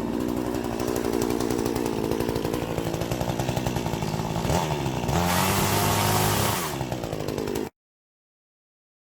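Budget Titan chainsaw with a 50 cm bar running under load. Its engine note shifts about five seconds in, and the sound cuts off abruptly near the end.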